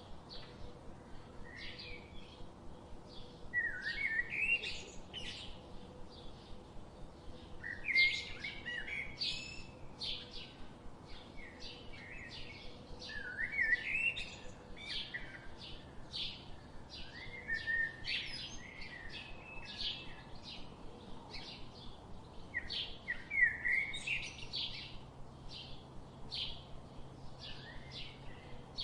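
Songbirds chirping: a continual run of short high chirps, with a louder, warbling song phrase breaking in every few seconds.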